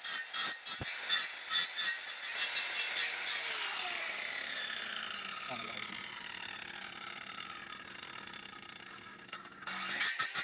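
A saw cutting a guadua bamboo pole: a rapid run of strokes for about the first three seconds, then a whine that falls slowly in pitch and cuts off suddenly near the end.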